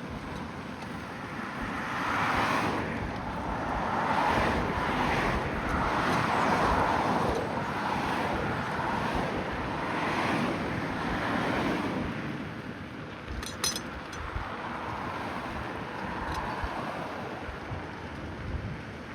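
Road traffic passing, a steady rush of tyre noise that swells for several seconds and then fades, with a brief burst of clicking about two-thirds of the way through.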